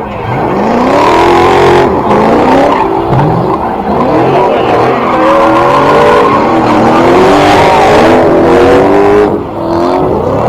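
BMW E30 engine revving hard, its pitch rising and falling over and over, with tyres squealing as the car is driven in a burnout or drift.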